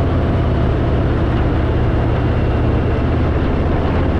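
Harley-Davidson Fat Boy's V-twin engine running steadily while riding, with a constant rush of wind noise.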